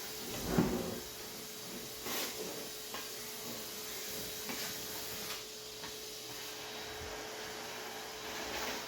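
Scattered knocks and clunks of household items being handled during kitchen cleaning, the loudest about half a second in, over a faint steady hum.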